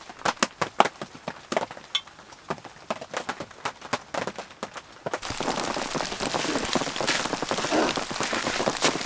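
Rain pattering on the tent's fabric, heard from inside: scattered sharp taps at first, then about five seconds in a denser, louder, steady patter.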